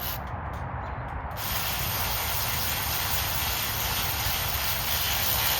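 Steady spraying hiss that starts abruptly about a second and a half in, runs for about four seconds, and stops sharply.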